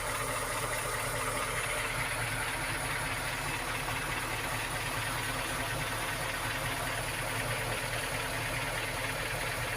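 An engine idling steadily, an even low running sound with a hiss above it and no changes.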